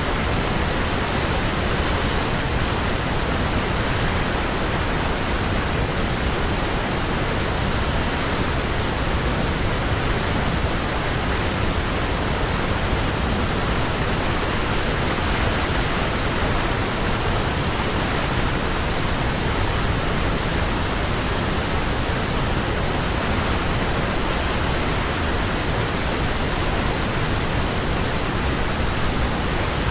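Waterfall water falling and rushing in a steady, even roar of noise, unchanging throughout.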